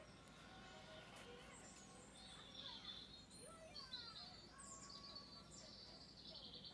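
Faint birdsong: several birds chirping and trilling, with high, rapid trills about two and a half seconds in and again near the end.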